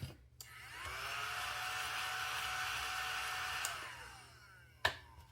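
Small handheld desk vacuum running to clear scratch-off shavings: its motor whines up to speed, holds steady for about three seconds, then winds down. A single click near the end.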